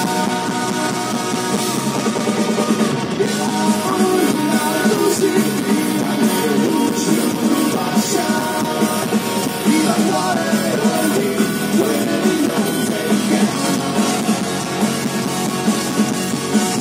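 Live punk rock band playing loud, with a drum kit driving the music.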